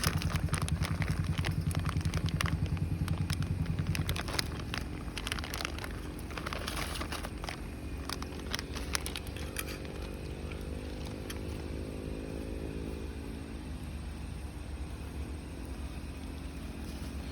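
An engine idling with a steady low pulse, which stops about four seconds in. Scattered crackling clicks follow, and another engine rises slowly in pitch for several seconds.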